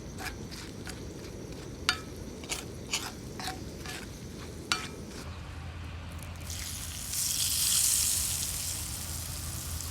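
Food frying in hot oil: scattered pops and crackles, then a louder hiss of sizzling that swells up a little after six seconds in and eases off.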